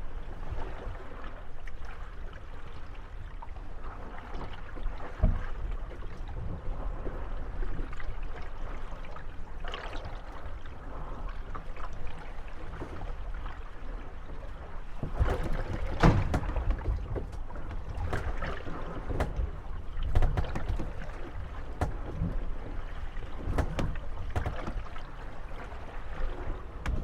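Moored wooden gondolas rocking on choppy water, their hulls bumping and creaking against one another and their moorings. The knocks come irregularly over a steady low wash of water and wind, with a busier run of knocks around the middle.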